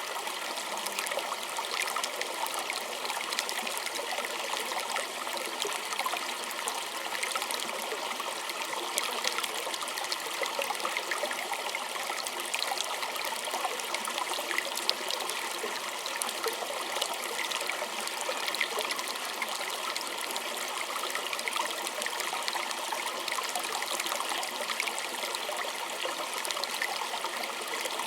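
Small stream trickling and babbling steadily over stones, a continuous splashing with fine bright droplet sounds.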